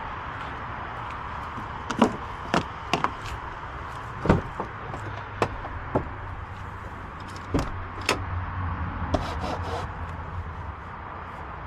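A 2005 Hummer H2's 6.0-litre V8 running with a steady low hum under an even hiss, broken by about a dozen irregular sharp clicks and knocks.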